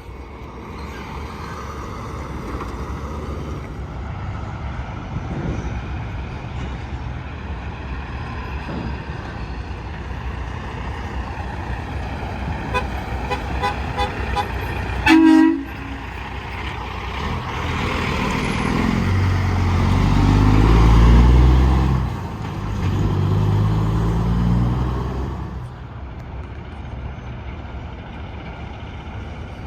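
Steady interstate traffic with a truck's horn giving one short toot about halfway through. Then heavy trucks pass close, their engines and tyres loud, peaking twice before fading.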